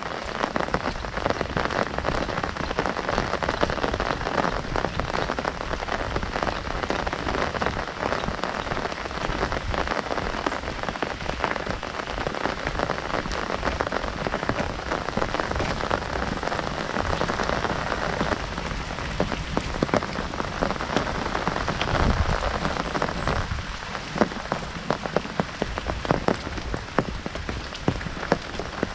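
Heavy rain falling on an umbrella overhead: a dense spread of many drop hits that thins after about two-thirds of the way through into fewer, more separate hits.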